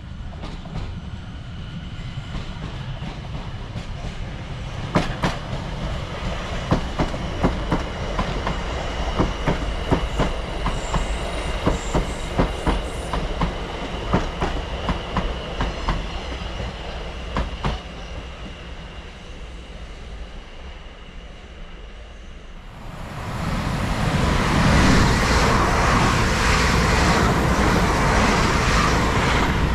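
Electric multiple-unit train running through the station: wheels clicking over rail joints in quick runs, with a steady high electric whine. About 23 s in, a second train rushes past close by, much louder.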